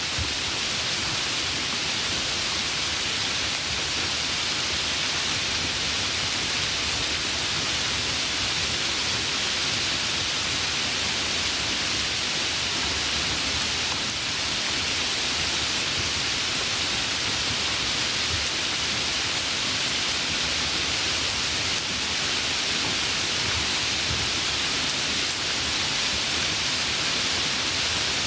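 Steady light rain falling, an even hiss with no individual drops standing out.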